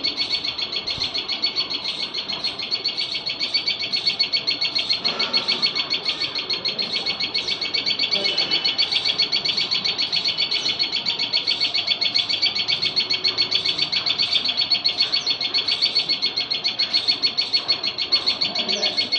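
A tiny songbird calls loudly and without pause: a fast, unbroken run of high chirps repeated several times a second.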